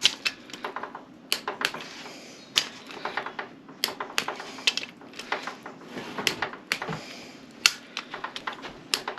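Irregular sharp metallic clicks and clinks from hand tools being worked on an engine, often in quick little clusters of two to four.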